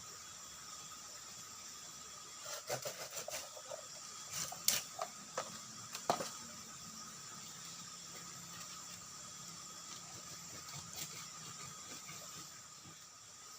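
Bamboo being cut and handled with a blade: a cluster of sharp, irregular knocks and cracks lasting about four seconds, starting a few seconds in, over a steady faint high-pitched background.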